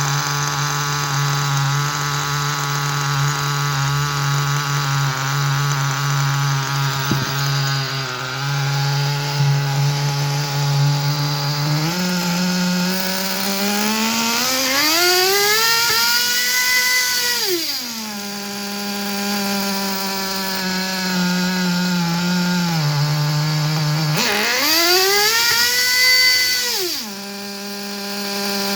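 Small two-stroke nitro glow engine, an OS 12CV-R in a Kyosho V-One R RC car, running steadily at a low speed. It is revved hard twice: the pitch climbs steeply to a high scream, holds briefly and drops back, once in the middle and again near the end.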